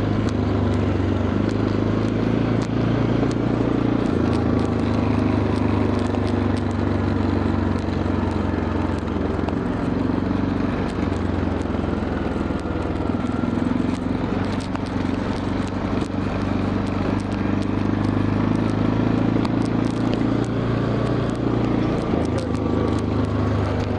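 Quad bike engine running as the quad is ridden, its note steady with a few small shifts in pitch, around a second in, about four seconds in, near ten seconds and again near the end, as the speed changes. Scattered faint clicks ride over the engine.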